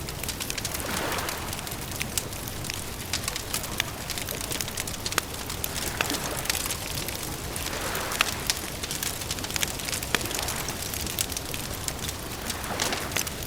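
Campfire crackling, with many sharp, irregular pops and snaps over a steady hiss. A soft rushing swell rises and fades about a second in, again after about six seconds, and near the end.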